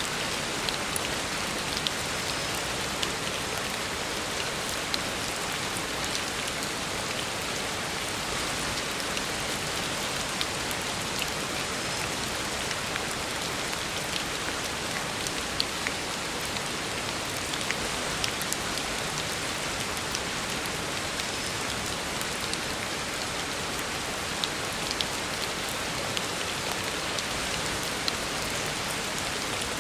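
Heavy rain falling on a road, a steady dense hiss with the sharp ticks of individual drops landing close by.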